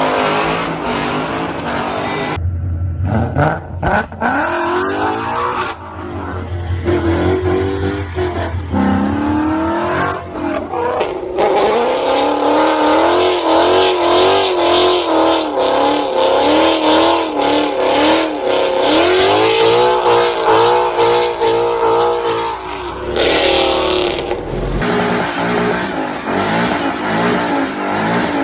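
Big V8 engines of American muscle cars revving and running, in several short clips cut one after another. The pitch climbs and drops again and again with the throttle blips, and there are abrupt changes between clips about two seconds in and again near the end.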